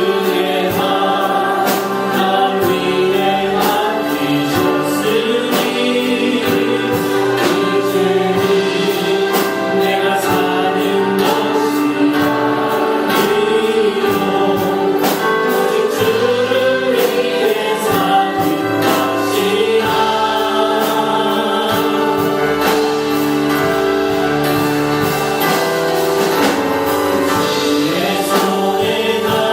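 Many voices singing a Christian worship song together, with instrumental accompaniment and a steady drum beat.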